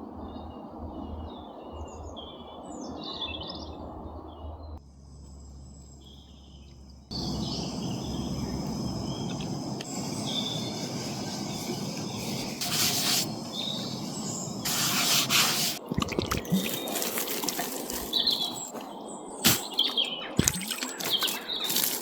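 Small birds chirping and calling in woodland over a steady hiss of background noise, with several sharp clicks and knocks in the second half.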